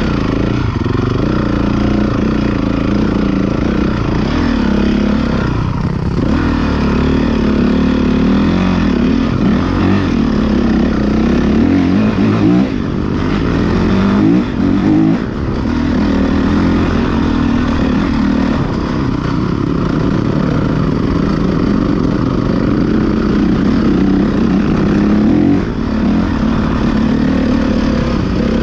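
Motocross motorcycle engines revving hard, their pitch rising and falling as they accelerate, with more than one engine heard at once.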